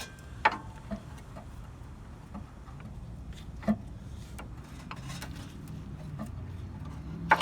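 Scattered clicks and knocks of a CV axle being handled and guided toward the transmission's output seal, with a sharper knock near the end, over a low steady hum.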